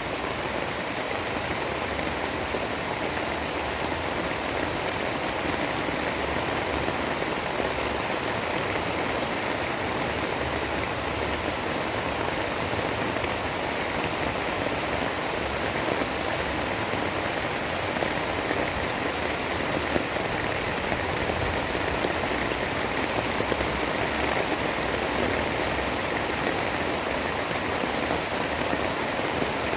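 Steady rain falling, an even continuous hiss with no thunder or breaks.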